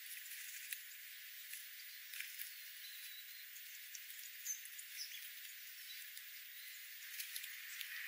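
Faint steady hiss with a few brief, high bird chirps around the middle and scattered sharp ticks.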